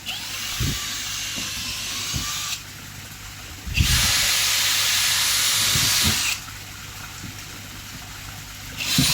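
Water hissing and spraying in three stop-start bursts, the middle one the longest and loudest, with a few low thumps between them.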